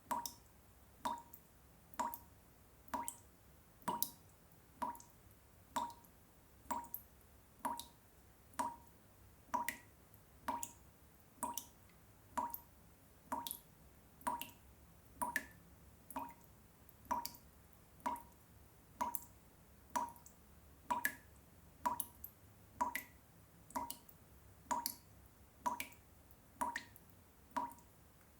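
Water drops falling one at a time into water, each a short plop with a quick rise in pitch, in a steady, even rhythm of a little over one drop a second.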